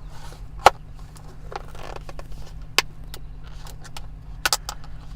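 Idling car engine giving a steady low hum, over which takeout food packaging is handled with several sharp clicks and faint rustles; the loudest click comes about two-thirds of a second in, and a quick pair near the end.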